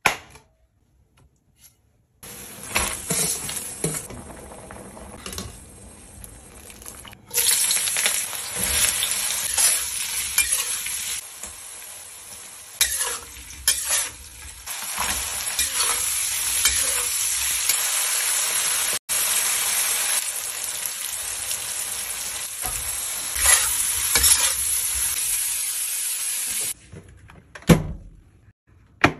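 Diced lamb sizzling as it stir-fries in a wok, with the spatula scraping and clinking against the pan. The sizzle gets louder about seven seconds in and cuts off shortly before the end, followed by a few sharp clicks.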